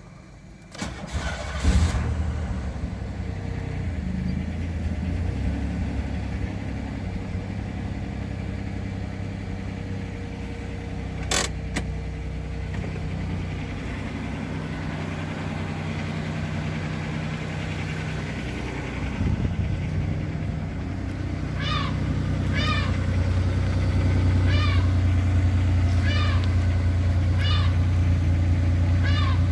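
Cold start of a 1995 Pontiac Trans Sport's 3.8 L L27 V6 after three and a half weeks standing: the starter cranks briefly and the engine catches within about a second, then settles into a steady idle. There is a single sharp click partway through, and the idle grows louder in the last third. Short high-pitched chirps repeat about once a second near the end.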